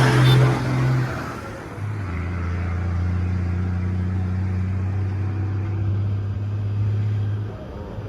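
Truck engine labouring up a steep grade. Its pitch drops about a second in, then it holds a steady low note that falls in level near the end.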